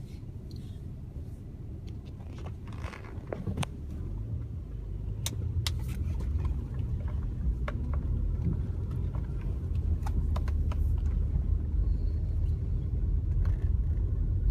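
Car driving, heard from inside the cabin: a low engine and tyre rumble that grows louder from about four seconds in, with scattered light clicks.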